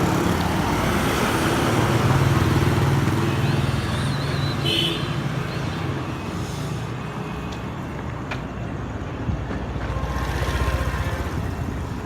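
Motor vehicle engine running with road traffic noise, a steady low hum that eases off after about six seconds.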